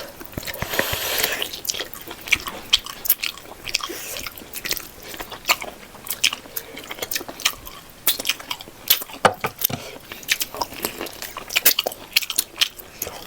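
Close-miked eating: a person chewing a mouthful of pork leg gravy and rice, with many sharp irregular mouth and teeth clicks. A brief rush of noise comes about a second in.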